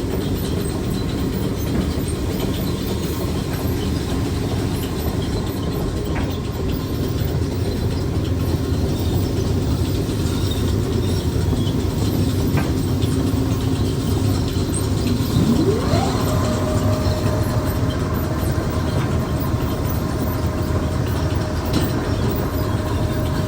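Grain leg (bucket elevator) running after repair: a steady, loud mechanical clatter of the belt and buckets. About two-thirds of the way through, a whine rises and then holds as a steady tone.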